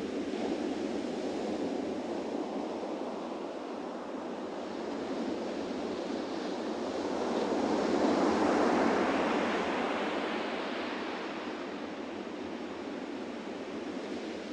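Surf breaking on a beach: a steady wash of waves that swells into a louder break about eight seconds in, then recedes.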